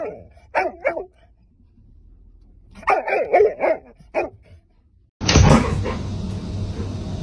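A dog barking in short bursts: a couple of barks near the start, then a quick run of about five barks around three seconds in. About five seconds in, a steady rushing noise takes over.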